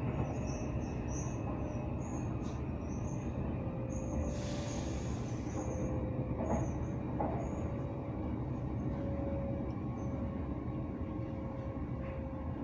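Moving train heard from inside the carriage: a steady running rumble with faint high-pitched wheel squeal, and a brief hiss about four seconds in.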